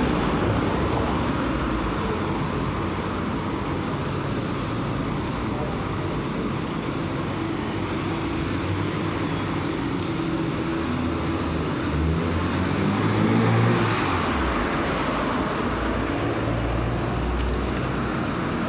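Steady road traffic noise, with one vehicle passing and swelling louder about two-thirds of the way in.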